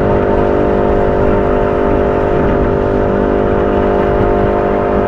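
A boat engine running at a steady speed, with wind rumbling on the microphone.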